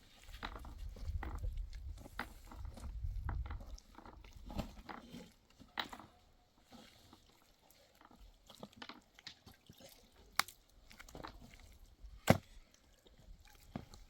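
Irregular small clicks and knocks, with a low rumble over the first few seconds; the sharpest click comes about twelve seconds in.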